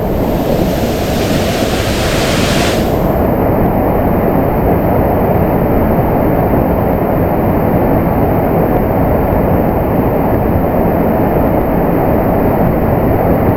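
Waterfall and fast river rushing, a loud, steady roar of water, with a brighter hiss for about the first three seconds.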